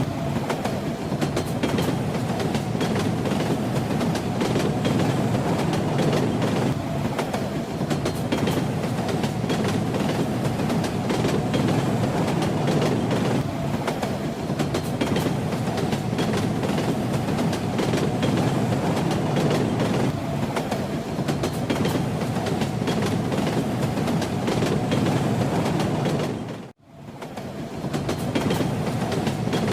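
A moving train runs with a steady low rumble and the clickety-clack of its wheels over the rail joints. About 27 s in, the sound drops out to silence for a moment, then fades back in.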